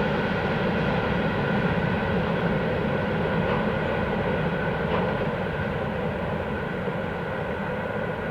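Freight train running past: a steady rumble of rolling wagons with a few faint steady high tones, slowly fading.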